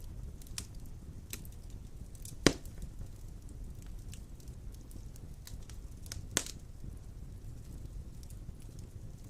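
Large logs burning in a stone fireplace: a steady low rumble of the flames with scattered crackles, and two sharp, loud pops, about two and a half seconds in and again about four seconds later.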